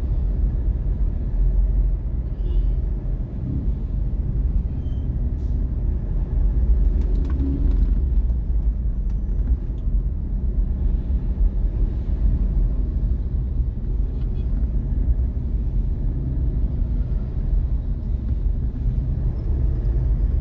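Steady low rumble of a car's engine and tyres while driving.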